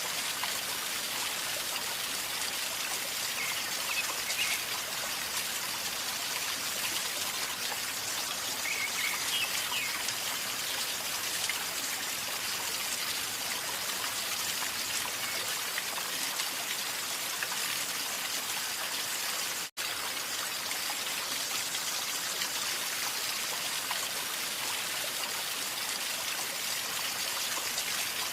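River water flowing and gurgling steadily, with a few faint high chirps now and then. The sound cuts out for an instant about two-thirds of the way in.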